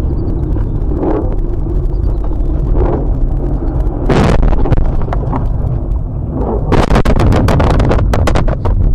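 A vehicle crash with a heavy low rumble, a loud impact about four seconds in, then a rapid series of sharp cracks and crunches near the end.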